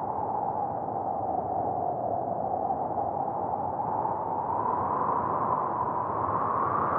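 Blizzard wind howling, a steady whistling rush that dips slightly in pitch and rises again near the end.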